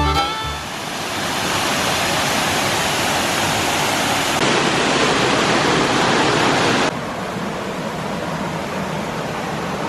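Steady roar of rushing water from a rainforest waterfall, dropping a little in level at an abrupt cut about seven seconds in. Fiddle music fades out at the very start.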